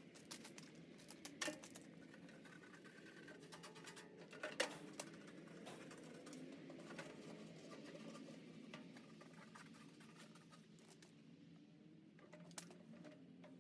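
Faint scratching and tapping, with two sharp clicks about one and a half and four and a half seconds in.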